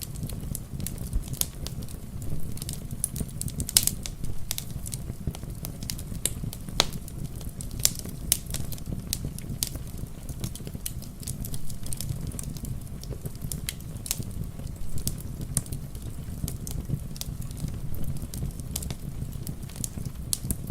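Wood fire crackling, with frequent irregular sharp pops over a low steady rumble, blended with steady rain.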